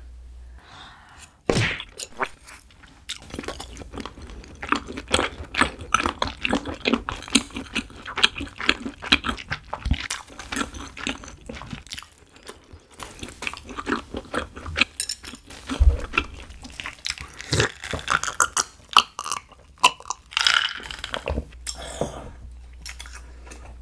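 Close-miked eating of a crisp croffle piece with honey jelly: a crunchy bite about a second and a half in, then a long run of crunching and wet chewing clicks that fades out near the end.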